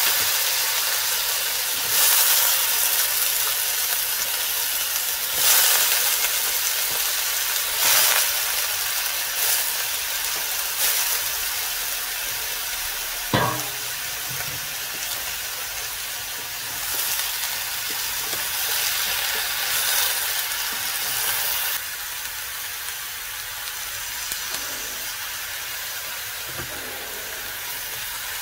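Sliced raw jackfruit frying in oil in a steel wok, a steady sizzle that swells louder a few times in the first ten seconds and eases a little about three-quarters of the way through. A brief falling squeak about halfway through.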